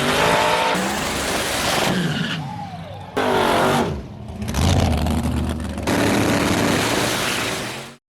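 Race car engines revving hard in a string of short clips that cut abruptly from one to the next, the pitch sweeping up and down with each rev. The sound cuts off suddenly near the end.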